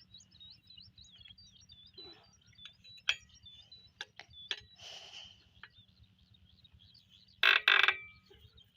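Scattered knocks and clicks of handling, with a short noisy rush about five seconds in and two loud noisy bursts near the end, over birds chirping.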